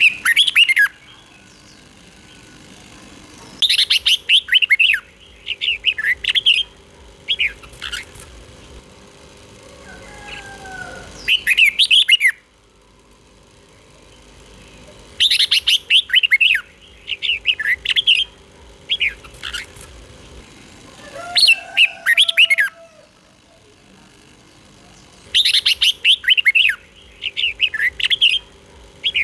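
Red-whiskered bulbul singing: bursts of quick, clear, high chirping notes in short phrases, the same run of phrases coming back about every eleven seconds. This is the southern Thai master-style song played to train young caged bulbuls.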